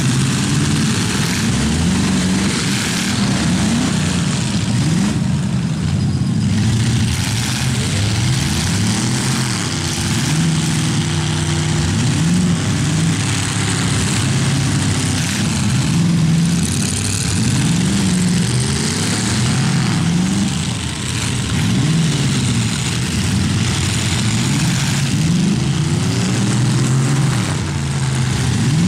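Demolition derby cars' engines revving hard, their pitch climbing and dropping over and over as the drivers gun the throttle and spin their wheels in the mud.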